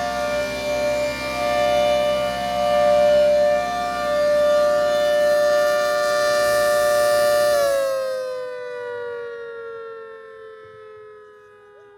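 ACA Hurricane 130 MKII outdoor warning siren, rebuilt with a custom 10/12-port rotor, sounding its steady alert tone as a two-note chord. The loudness swells and dips. A little under eight seconds in, it shuts off and winds down, its pitch sliding slowly lower as it fades.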